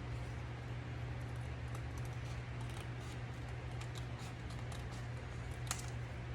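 Scissors cutting through manila-folder card stock: a run of faint, irregular snips and clicks, with one sharper snip near the end, over a steady low hum.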